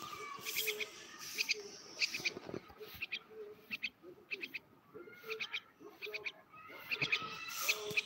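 Bird calls: quick runs of two to four sharp, high chirps repeating about every half second to a second, with short low notes in between.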